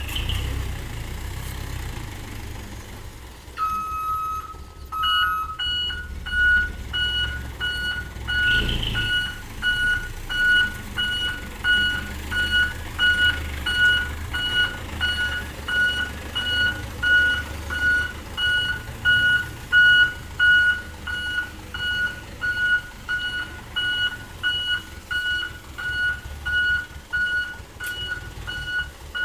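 Truck's reversing alarm beeping steadily over the low rumble of its running diesel engine. The beeping starts about four seconds in, the sign that the truck is backing up.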